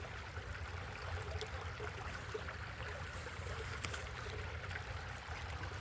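Wind buffeting the microphone: a steady low rumble, with a couple of faint clicks.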